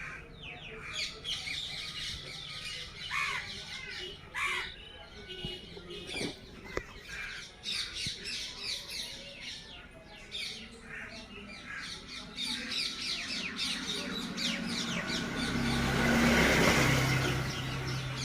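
Many small birds chirping and twittering, with a couple of harsher falling calls a few seconds in. Near the end a louder swell of noise with a low hum rises and fades.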